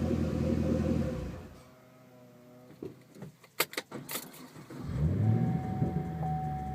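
Chevrolet Camaro SS 6.2-litre V8 through a Flowmaster American Thunder axle-back exhaust idling, then shut off about a second in. A few sharp clicks follow, and about five seconds in the engine is restarted, flaring up in a quick rev before settling back to a steady idle.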